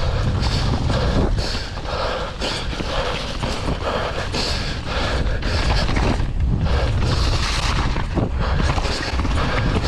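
Downhill mountain bike riding a wet woodland trail: wind buffeting the microphone, with tyre, chain and frame noise over dirt and roots coming in repeated hissy surges about every half second to second.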